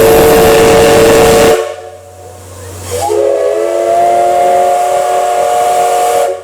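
Steam locomotive whistle of a C11 tank engine sounding two long blasts of several tones together. The first blast, over a loud hiss, stops about one and a half seconds in; the second starts about three seconds in and is held.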